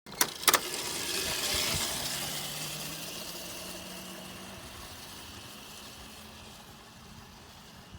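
Two sharp knocks right at the start, then a dirt bike engine running, its note rising a little and steadily fading away.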